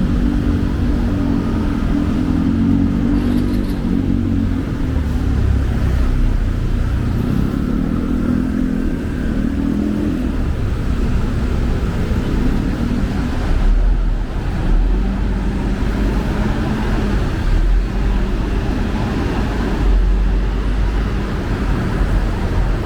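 Road traffic: vehicle engines running close by with a steady low rumble.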